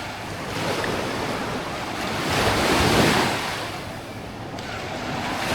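Small waves of a calm sea breaking and washing up the beach, one surge swelling to a peak about three seconds in and then ebbing, with some wind noise on the microphone.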